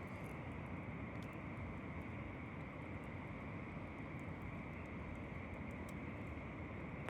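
Distant ocean surf as a steady low rumble, with a few faint scattered crackles from a campfire.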